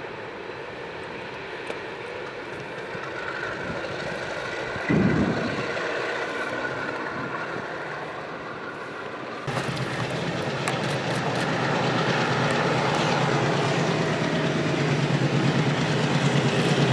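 Freight train coming through a railway tunnel: a steady rumble that slowly grows, with a brief low thump about five seconds in. About halfway it jumps to a louder, steady low engine drone that keeps building as the locomotive and wagons approach.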